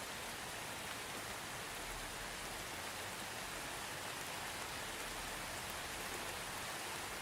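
Steady soft rain falling, an even hiss of raindrops.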